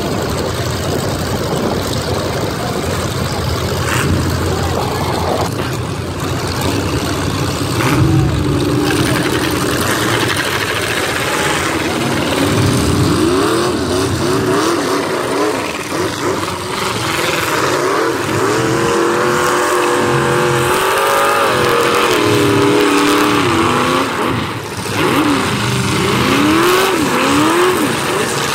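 Several demolition derby cars' engines running and revving together, their pitch rising and falling, with quick repeated revs about halfway through and again near the end.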